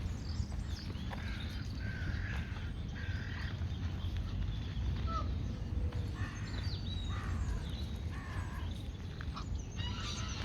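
Birds calling: two runs of harsh, rasping calls, one near the start and one in the second half, with a few short whistled notes between them, over a steady low rumble.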